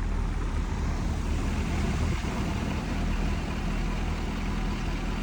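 A vehicle driving at a steady pace: a steady low engine hum under an even hiss of road noise.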